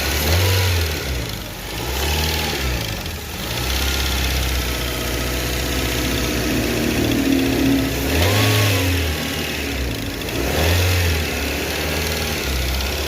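Car engine running with its accessory (alternator) belt removed, revved up and let back down about four times between stretches of idle. With the belt off the earlier noise has dropped, which the mechanic takes as a sign that it comes from a worn air-conditioning compressor.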